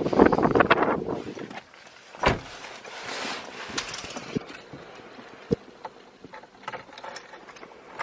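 Handling noises of someone getting into a car: a patter of knocks and rustling, a single thump about two seconds in like a door shutting, then rustling and a few small clicks.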